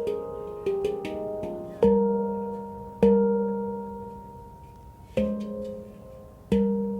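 F minor handpan by Oasis Sound Sculpture, played by hand. A few quick notes come first, then single strikes a second or two apart, each ringing out and fading slowly.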